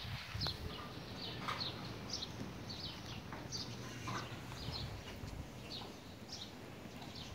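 A small bird chirping over and over, short high chirps about two a second, over faint outdoor background noise.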